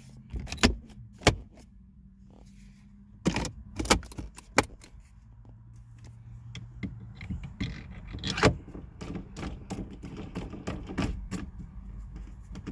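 Plastic shifter-console trim and its clips clicking and snapping back into place, with a few loud snaps in the first five seconds and another past the middle, then a run of lighter plastic rattles and ticks.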